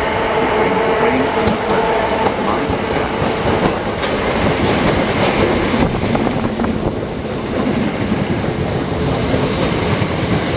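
Class 319 electric multiple unit passing at close range, its wheels rumbling and clacking over the rail joints as the carriages go by. A steady hum is heard in the first second or so.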